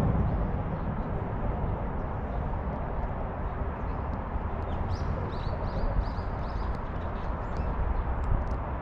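Outdoor ambience: a steady low rumble of wind and distant city noise. About halfway through, a small bird gives a quick series of about six high chirps, and a few light ticks follow near the end.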